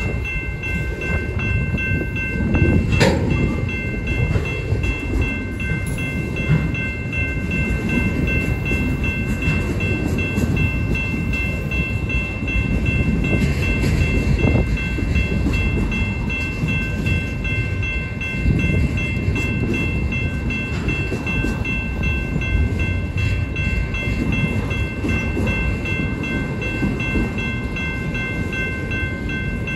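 Autorack freight cars rolling past on the rails: a steady rumble of wheels and cars, with a steady high-pitched ring over it and one sharp crack about three seconds in.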